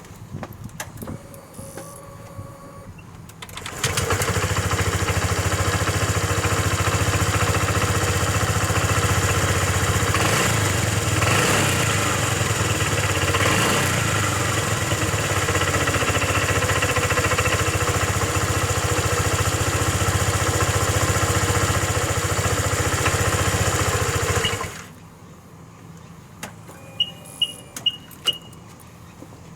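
Honda PCX JF56 scooter's 125 cc single-cylinder engine running steadily, starting about four seconds in and cutting off about 25 seconds in.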